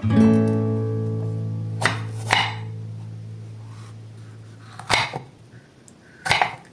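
Acoustic guitar background music: a single chord rings out and fades away, with four short knocks over it, two about two seconds in and two more later.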